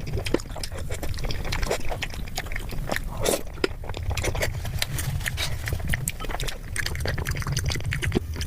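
Close-miked chewing and mouth smacking: a dense run of irregular wet clicks over a steady low rumble.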